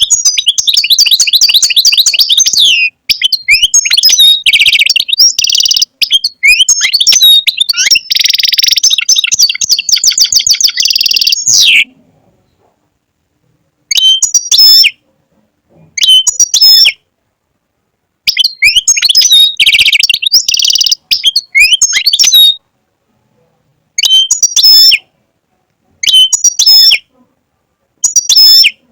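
European goldfinch singing: a long run of rapid, high twittering for about twelve seconds, then a string of shorter phrases, each about a second long, with silent gaps between them.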